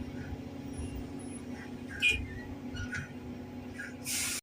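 Diesel engine of a 20-tonne Doosan excavator running steadily, heard from the cab, with a few short hisses and a louder hiss just before the end.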